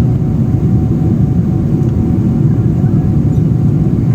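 Boeing 777-300 airliner cabin noise on approach to landing: a steady low roar of engines and airflow heard from inside the cabin, with a faint steady hum above it.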